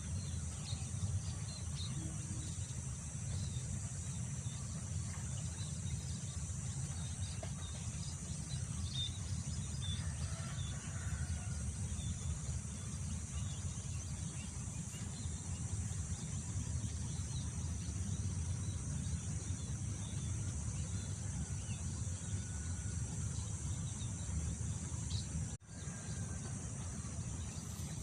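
Wind rumbling over a rice field with a steady high insect drone and scattered faint bird chirps. The sound cuts out for an instant about three-quarters of the way through.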